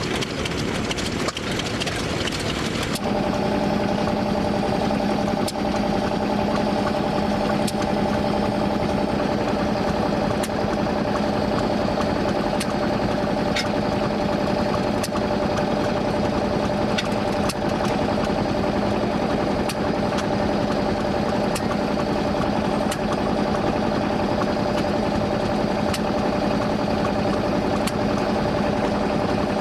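An engine running steadily at a constant speed with a steady hum, and faint scattered clicks over it. The sound changes abruptly about three seconds in, as at a cut.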